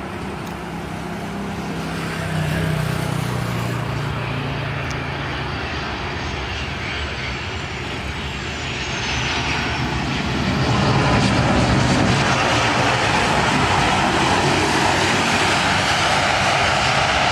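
Airliner on landing approach passing close, its engine roar swelling louder about ten seconds in, with a thin high whine falling in pitch a little before that.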